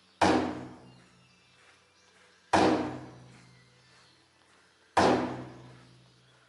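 Three heavy struck impacts, evenly spaced about two and a half seconds apart, each ringing on with a low tone that fades away.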